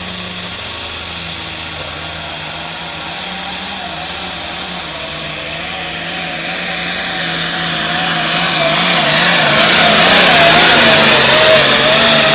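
Limited Pro Stock pulling tractor's diesel engine running hard under load during a pull, its note wavering and growing steadily louder through the run.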